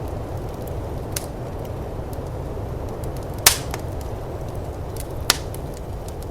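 Wood fire in a firepit crackling, with scattered small snaps and a few sharp pops, the loudest about halfway through, over the steady low rumble of snowstorm wind.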